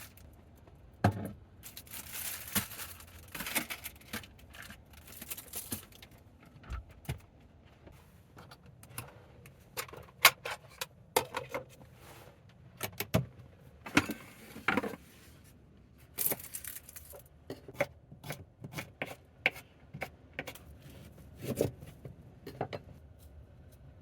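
Cooking gear and food packaging being handled to prepare camp ramen: scattered clinks and clacks, with a few short rustling bursts.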